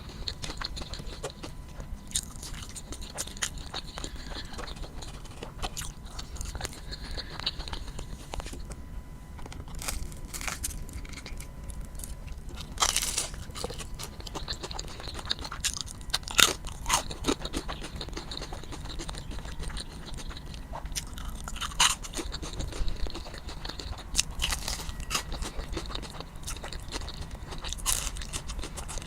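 Crunchy fried food being bitten and chewed, with a steady run of crisp crunches. The loudest bites come about 13, 16 and 22 seconds in.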